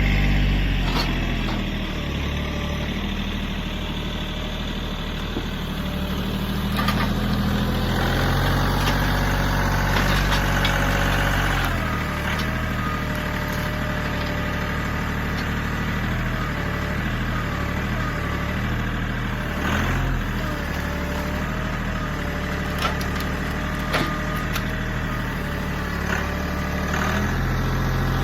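Kioti CK3510se compact tractor's three-cylinder diesel engine running, its pitch shifting a few times. A higher whine rises and falls over the second half, and there are a few sharp knocks.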